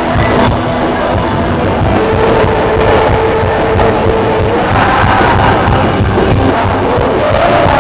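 Loud live band music in a rock style. A single held note sounds from about two seconds in until nearly five seconds.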